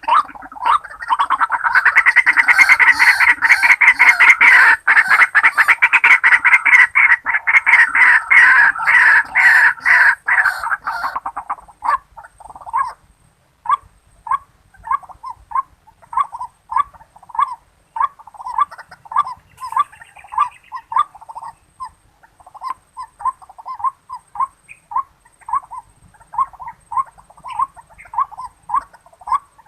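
White-breasted waterhen calling: a loud, dense run of harsh repeated notes for about the first ten seconds, then single notes repeated steadily about twice a second.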